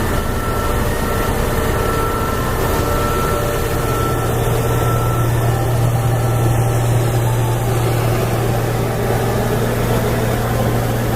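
Heavy engine running steadily with a low hum that grows stronger a few seconds in, over a constant mechanical wash.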